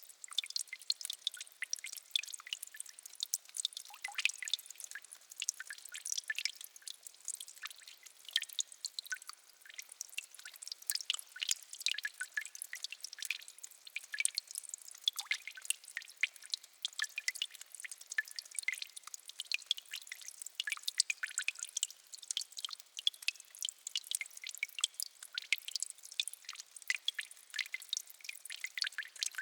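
Water dripping in a peat bog, many small, quick, irregular drips overlapping into a constant high patter.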